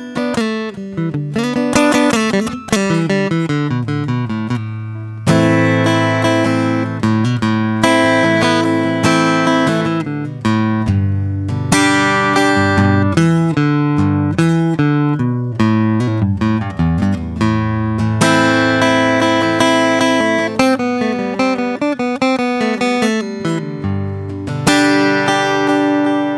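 Acoustic guitar played solo, improvised, with picked notes and strummed chords ringing over one another.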